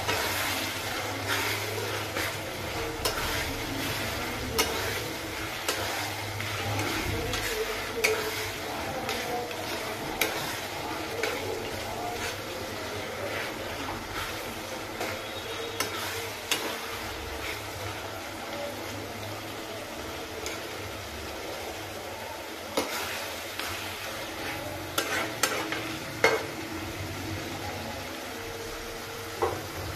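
Masala-coated mutton frying in oil in a steel kadai, sizzling steadily, with a metal spoon scraping and clicking against the pan at irregular moments as it is stirred.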